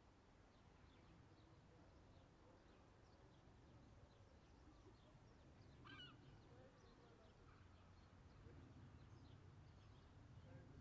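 Near silence: a faint low background rumble with scattered faint bird chirps, one a little louder about six seconds in.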